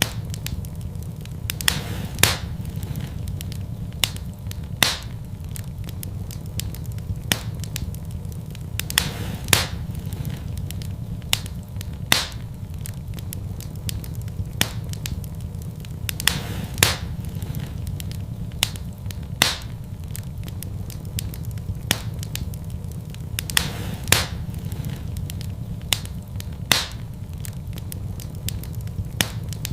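Wood fire in a fireplace crackling: sharp pops every two to three seconds and smaller crackles over a steady low rumble.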